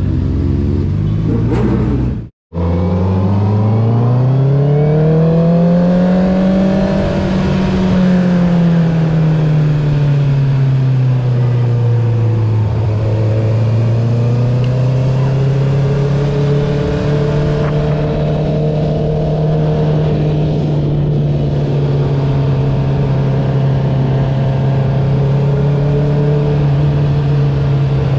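Honda CB650R's inline-four running through an Akrapovic full-system titanium racing exhaust with the dB killer removed. The engine pulls up in pitch over several seconds, eases back down, then holds a steady cruising drone. The sound cuts out completely for a moment about two seconds in.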